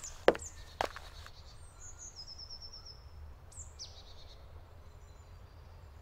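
Woodland birds calling: scattered high chirps, a quick trill of repeated notes about two seconds in, and short falling calls near the four-second mark. Two sharp clicks come in the first second.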